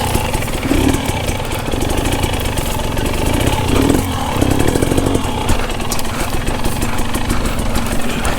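Husqvarna TE 250i two-stroke dirt bike engine running on the trail, its revs rising and falling in bursts, strongest about four to five seconds in.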